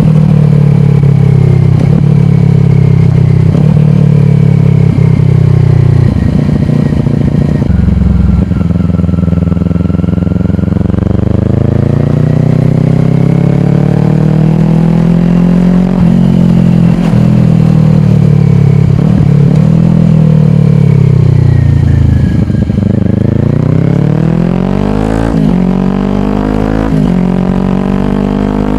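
Kawasaki Ninja 400's parallel-twin engine running through a slip-on exhaust while riding. Its pitch holds steady, slowly falls as the bike eases off about two-thirds of the way in, then climbs sharply under acceleration, broken by quick gear changes near the end.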